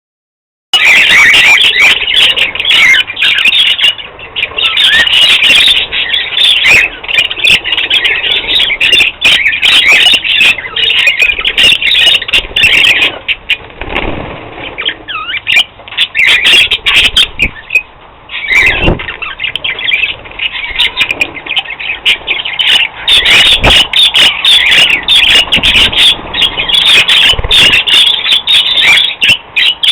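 A flock of budgerigars chattering and warbling, with fast, high, scratchy calls, starting about a second in. The chatter dips briefly a few times.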